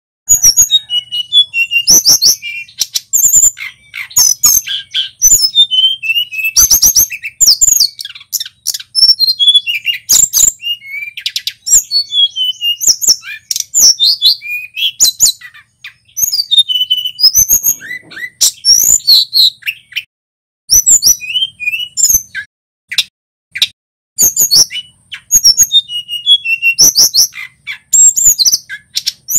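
Male tledekan gunung singing: a fast, loud run of high chirps, trills and whistled slurs, with a couple of brief pauses.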